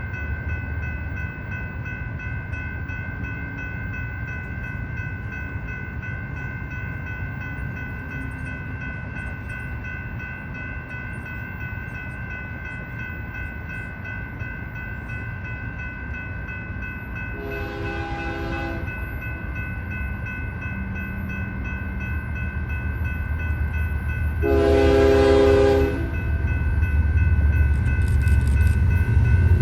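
A freight locomotive's horn sounds a short blast, then a longer, louder blast, over a steady crossing-bell ringing. The low rumble of the approaching train grows louder near the end.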